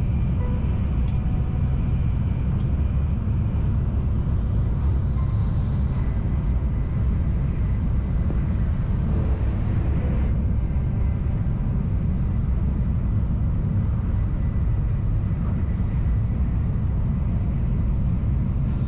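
Shinkansen Nozomi bullet train running at speed, heard from inside the passenger cabin: a steady low rumble.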